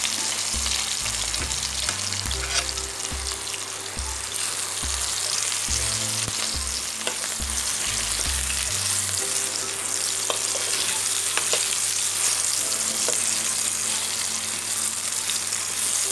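Potato chunks sizzling steadily in hot oil in an aluminium kadai, with a spoon stirring them and now and then knocking and scraping against the pan.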